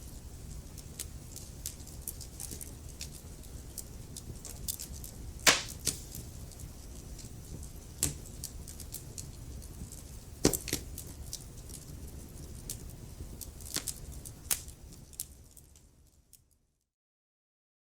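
Wood fire crackling, with irregular sharp pops over a low steady rumble of the flames; the loudest pop comes about five and a half seconds in. The sound fades out to silence about two seconds before the end.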